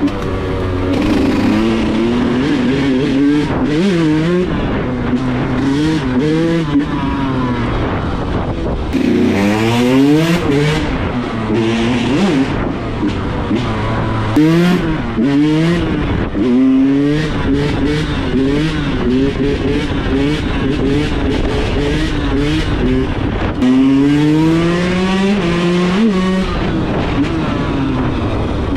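Yamaha YZ125's single-cylinder two-stroke engine run hard at full throttle, its pitch repeatedly climbing steeply and then dropping as it revs up and backs off.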